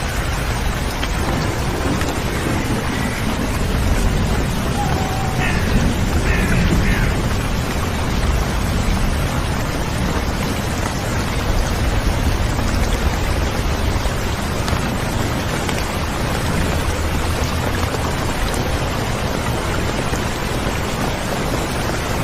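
Steady rain falling, an even dense hiss that does not let up. A few brief, faint whistled notes come through it in the first seven seconds or so.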